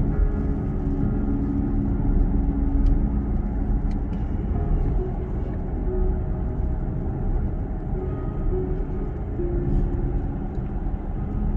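Steady road and tyre rumble of a VinFast VF8 electric SUV travelling at highway speed on a wet, rainy road.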